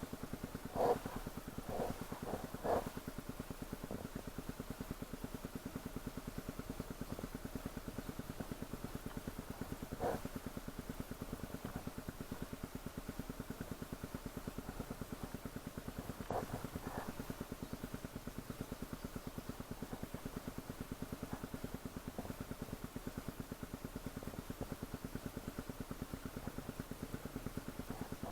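Off-road dirt bike engine idling steadily, with a few brief louder blips early on and around ten and sixteen seconds in.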